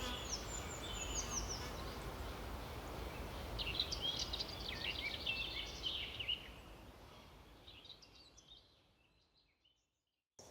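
Forest ambience: wind through the treetops as a steady rush, with small birds chirping and twittering, busiest in the middle. The whole fades out to silence about two seconds before the end.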